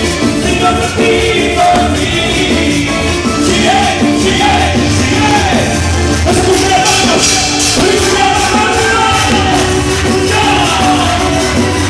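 A band playing Latin American popular music, with a singer over a steady beat.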